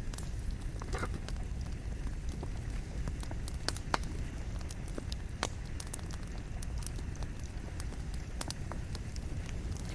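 Wood fire burning, a steady low rumble of flame with irregular crackles and snaps from the burning logs, one sharper pop about four seconds in.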